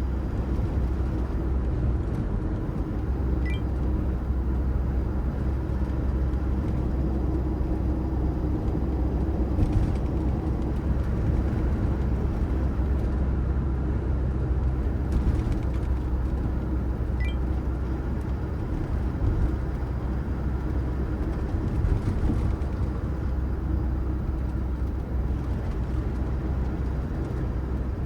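Toyota Hiace camper van on the move: a steady low engine and road rumble heard from inside the cabin.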